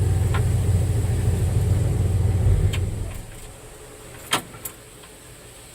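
Old truck's engine idling with a steady low rumble, then switched off about three seconds in. Two sharp clicks follow a second or so later.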